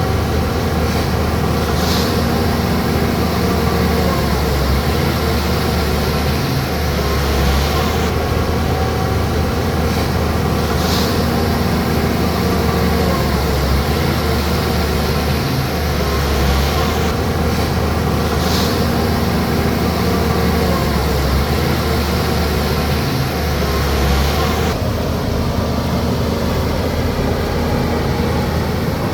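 Bulldozer's diesel engine running steadily under load with a deep drone, with brief high-pitched squeaks about three times.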